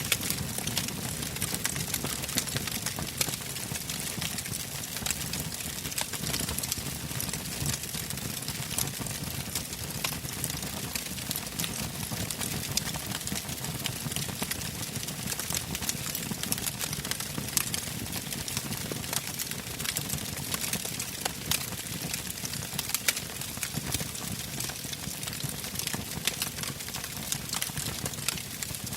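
Wood fire burning in a fireplace: a steady low rush of flame with many small, irregular crackles and pops.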